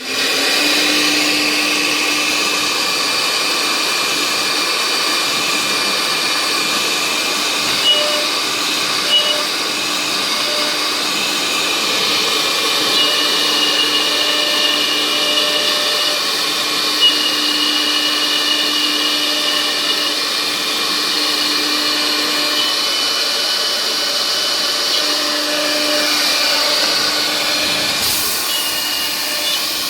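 CNC router running, a steady loud whirr with a pitched whine that drops in and out every few seconds as the spindle cuts.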